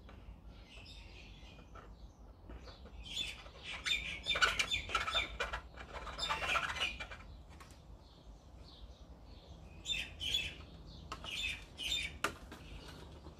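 Small birds chirping in scattered bursts of short, high calls.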